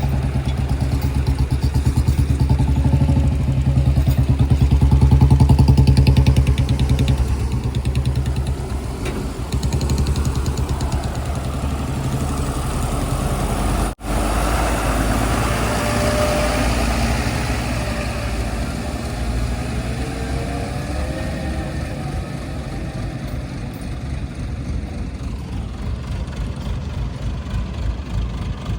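Heavy diesel machinery engine running loud, working harder for a few seconds early on. After a sudden cut about halfway, an engine runs on with a rising and falling whine.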